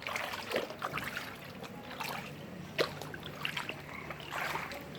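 Floodwater splashing and sloshing in irregular bursts.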